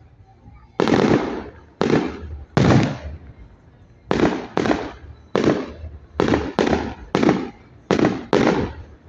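Fireworks display: about eleven loud firework bursts in quick, irregular succession, each a sharp bang that fades away over about half a second.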